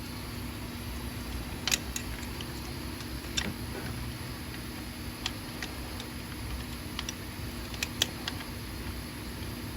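Scattered light metallic clicks and clinks of hand tools on engine parts, about ten in all at irregular intervals, over a steady low hum.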